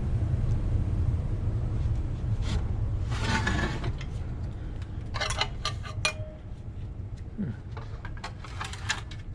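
Steel hand tools and small nuts and bolts clinking on a brake backing plate assembly as it is being dismantled, in several short bursts of metallic clinks over a low rumble that fades away.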